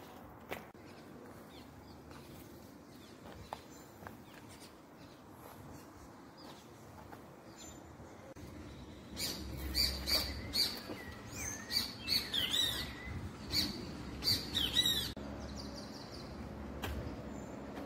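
Birds chirping: a run of quick, high, rising and falling calls for about six seconds in the middle, over faint outdoor background noise.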